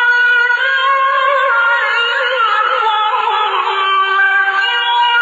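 A male Quran reciter's voice holding a long, ornamented chanted note, the pitch wavering and sliding lower about halfway through.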